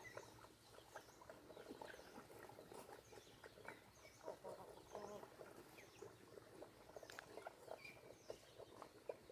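Faint farmyard poultry sounds: scattered short clucks and calls with small high chirps, and a few soft knocks.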